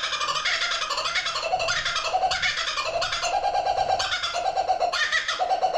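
Laughing kookaburra calling: a loud, rolling cackle of rapid repeated notes, the bird's laugh.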